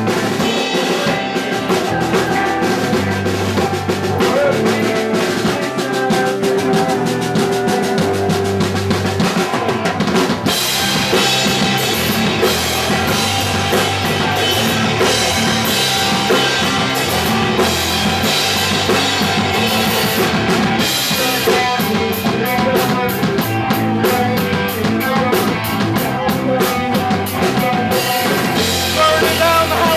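Punk rock band playing live: fast, loud drum kit with bass and guitars. The music gets fuller and brighter about ten seconds in.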